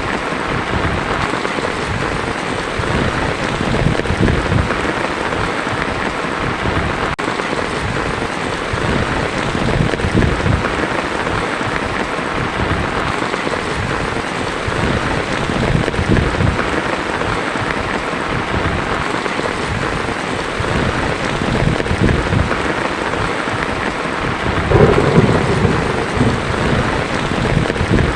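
Heavy rain pelting a tin roof in a dense, steady hiss, with low rolling thunder rumbling underneath. A louder roll of thunder comes near the end.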